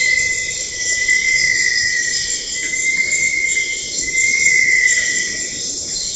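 Forest insects calling: one steady, high, slightly wavering tone held for several seconds and stopping shortly before the end, over a constant high-pitched insect chorus.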